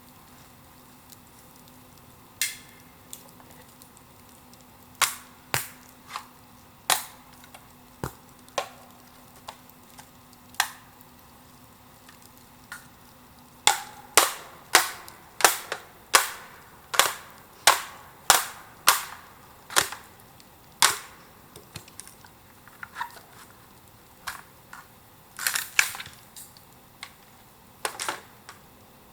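Bamboo giving loud, sharp cracks, now and then at first, then a quick run of them about every 0.7 s around the middle, and a few more near the end.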